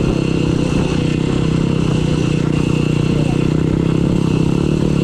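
Dirt bike engine running steadily at a constant speed, heard close up, with a rough low rumble under an even engine note.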